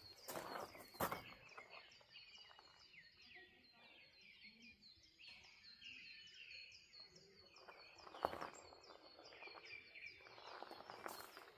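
Faint birdsong: a small bird repeats a short, high, falling chirp about four times a second. A few footsteps land near the start and again about eight seconds in.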